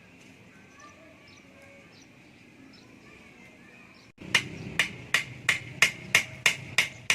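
Faint background with a few small chirps, then from about four seconds in a steady run of sharp hammer blows, about three a second, each with a short metallic ring.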